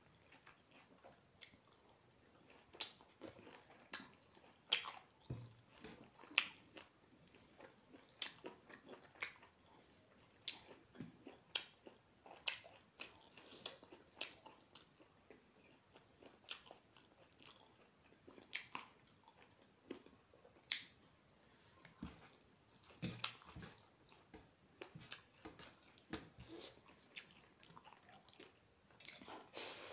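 Soft chewing and mouth sounds of a person eating fried pork and rice by hand: a steady run of irregular small clicks, smacks and crunches.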